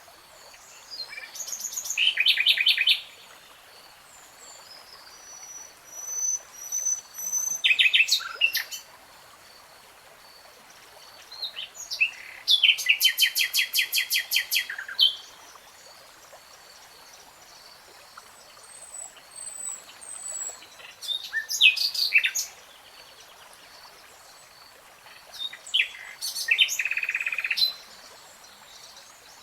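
Songbirds singing: five loud phrases a few seconds apart, several of them fast trills of rapidly repeated notes, with fainter high whistled notes in the gaps between.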